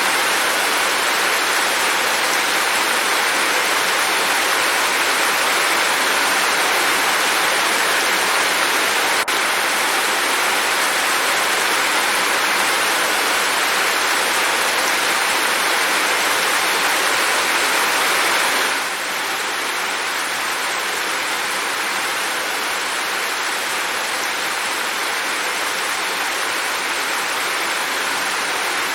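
Steady, dense rain hiss with no separate drops standing out. It drops slightly in level about two-thirds of the way through, and there is one faint tick about a third of the way in.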